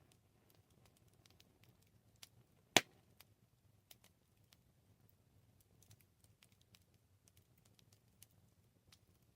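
Campfire burning, the wood giving off sparse, quiet crackles over a faint low rumble, with one sharp loud pop about three seconds in.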